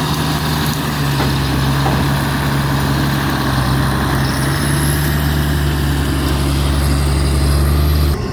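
Diesel engine of a John Deere log skidder running steadily. The sound drops abruptly just before the end.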